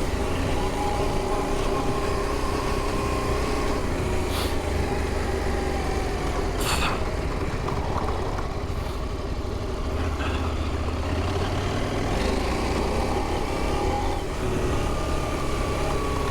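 Adventure motorcycle engine running steadily while being ridden off-road on a dirt trail, with two sharp knocks about four and a half and seven seconds in.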